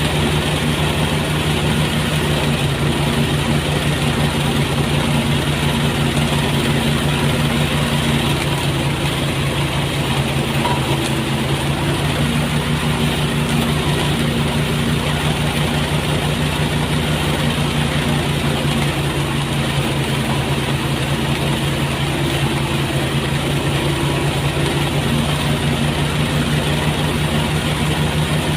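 Motorised rice threshing machine running steadily, its engine holding one speed under a constant rattling rush of threshing.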